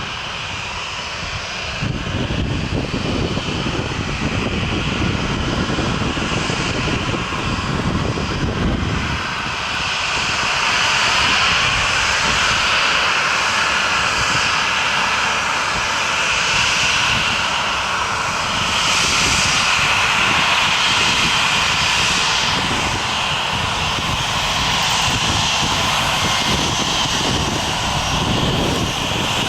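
Airliner engines running loud and continuous, getting louder about two seconds in and again about ten seconds in.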